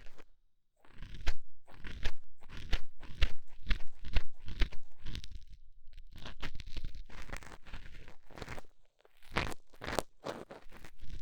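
ASMR ear cleaning: a bamboo-style ear pick scraping inside a microphone's ear, making close, irregular crunching and scratching strokes, a few per second, with short pauses.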